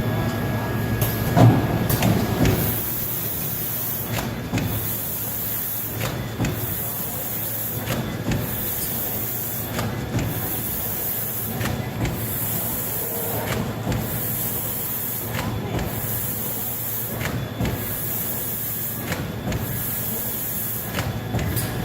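Bottom-seal bag-making machine running: a steady hum under a high hiss that cuts out with a click about every two seconds as the machine cycles. A louder knock and rumble about one and a half seconds in.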